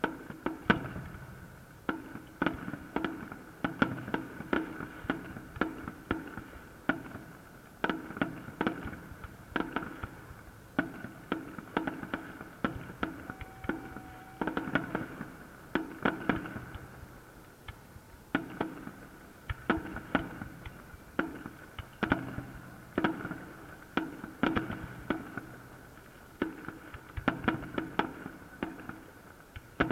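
Fireworks salute: aerial shells bursting in a rapid, uneven run of bangs, several a second, with brief lulls between volleys.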